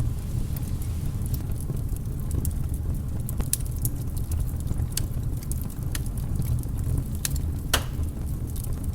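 Wood campfire burning: a steady low rumble of flames with scattered sharp crackles and pops, one louder pop about three-quarters of the way through.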